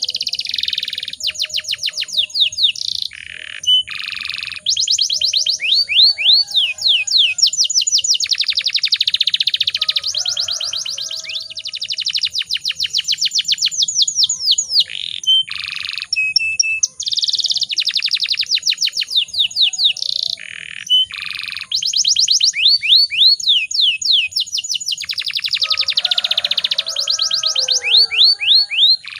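Domestic canary singing in long, fast rolling trills, phrase after phrase with short breaks, with a few brief held whistled notes between them.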